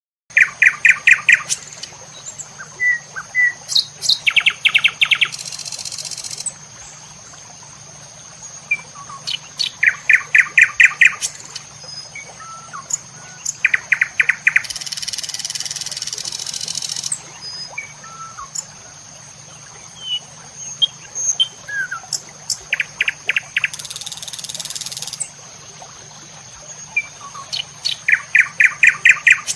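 Birds chirping: a rapid trill of quick notes repeats every few seconds, with short chirps between, over a steady high-pitched tone. A few times a high hiss comes in for a second or two.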